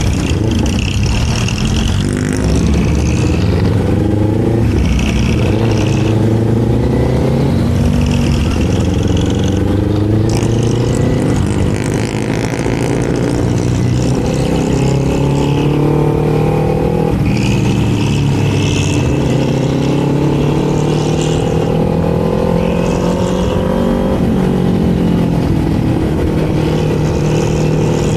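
Kawasaki Z400 parallel-twin engine and exhaust under way, the revs climbing and dropping back again and again, with one longer climb in the second half.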